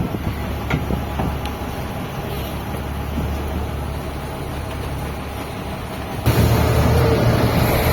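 Fishing boat's engine running steadily, with a few knocks early on deck; about six seconds in it suddenly gets louder, with a strong hiss added over the engine.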